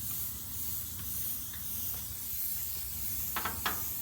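R22 refrigerant hissing steadily out of a leak in the air conditioner's condenser line, at a spot where a rubbing wire wore through the tubing; the system has lost nearly all its charge. Two short ticks sound near the end.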